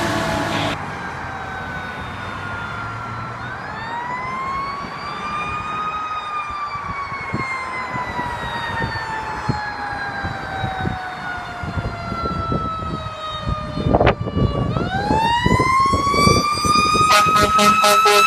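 Fire truck siren wailing: a slow rise, a long slow fall, then a rise again about fifteen seconds in, over the rumble of the truck. Near the end there is a rapid series of short horn blasts.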